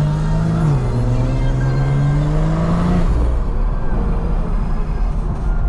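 BMW B58 turbocharged inline-six accelerating: the engine note drops at an upshift just under a second in, then climbs steadily for about two seconds before fading as the throttle comes off, over steady road and wind noise.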